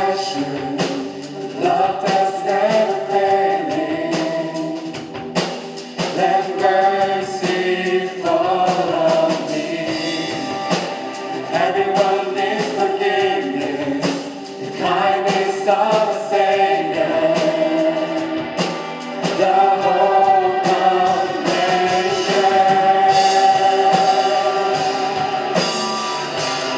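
Praise team singing a contemporary worship song in unison over band accompaniment, with a steady drum beat.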